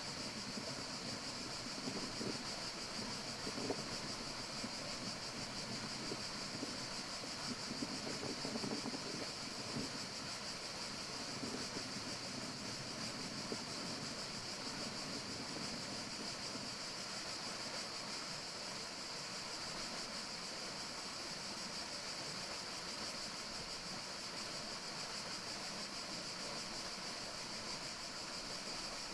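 Steady forest ambience: a continuous high-pitched hiss over a rushing, wind-like noise that swells and eases in the first half and then settles.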